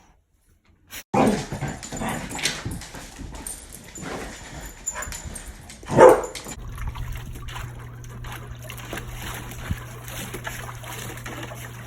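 Dog vocalising with several short, sharp sounds, the loudest about six seconds in. After that a steady low hum runs under quieter sounds.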